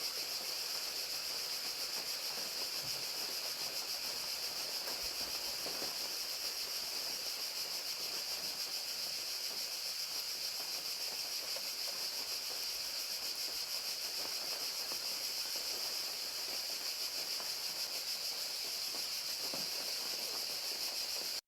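Crickets chirping in a continuous, fast-pulsing high trill, over the steady hiss of rain.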